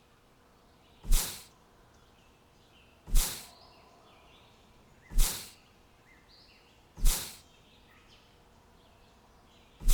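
A short, sharp hissing swish, repeated at even spacing about every two seconds. Each one starts suddenly and fades within about half a second. Faint bird chirps come in between.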